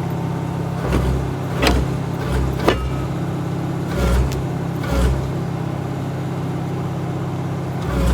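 Excavator's diesel engine running steadily while its thrown track is worked back on, with repeated heavy clanks and brief metal squeals from the track about every second.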